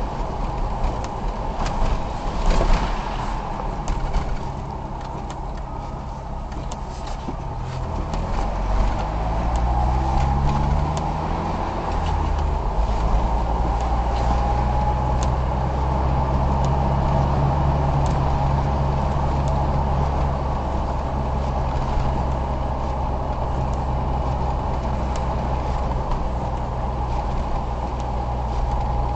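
Car engine and road noise heard from inside the car; about eight seconds in the engine pitch rises as the car speeds up, then it settles into a steady hum.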